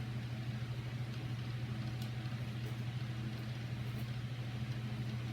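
Steady low mechanical hum running without change, with a few faint light ticks over it.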